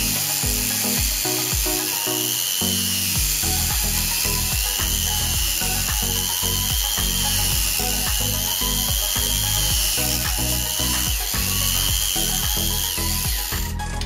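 Rotary tool with a part-worn resin cutting disc at low speed cutting grooves into a drill chuck's plastic grip: a high whine that rises and falls with each pass, about every two seconds. Background music plays underneath.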